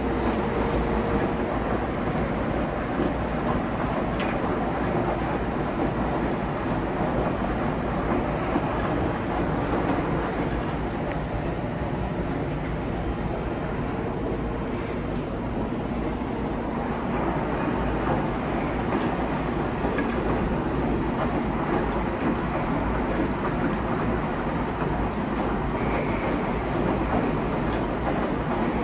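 Large coin-laundry washing machine running, its drum turning with a steady mechanical rumble.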